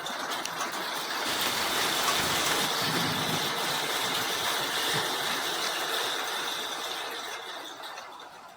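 Rain shower falling, a steady wash of noise that swells about a second in and eases off near the end.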